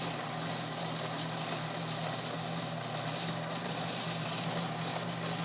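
Terra Kaffe bean-to-cup espresso machine running at the start of a cappuccino cycle: a steady motor hum over an even, loud hiss.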